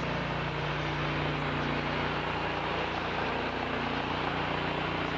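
Sawmill machinery running steadily, an engine drone holding one even pitch.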